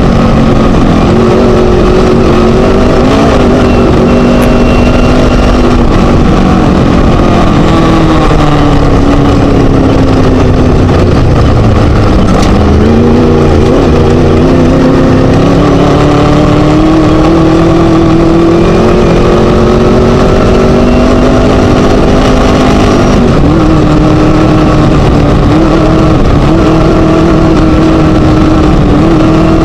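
Scat engine of a Chenowth DR2 Class 1 desert race buggy running hard over rough noise. The engine note sinks as it slows, climbs steadily under acceleration, then drops suddenly at an upshift and holds steady near the end.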